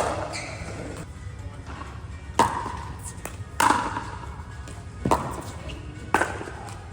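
Pickleball rally: five sharp, ringing pops of paddles striking the plastic ball, about one to two seconds apart.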